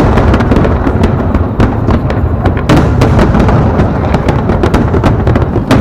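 Aerial fireworks going off in rapid succession: a dense barrage of sharp bangs and crackles over a continuous rumble of booms.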